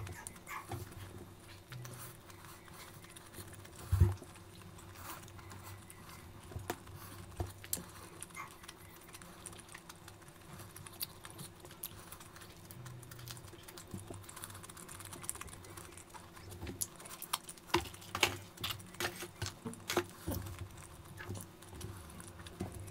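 Close-up mouth sounds of a person eating: wet chewing and smacking clicks, with a single sharp knock about four seconds in and a busier run of clicks late on.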